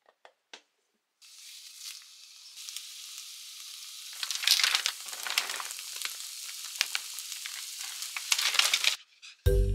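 Food sizzling in a hot frying pan: a steady hiss that grows louder, with crackling, a few seconds in, then cuts off suddenly near the end. A few light clicks come just before it starts.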